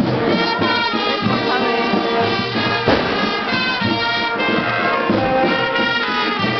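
Marching brass band playing, several brass instruments holding notes together.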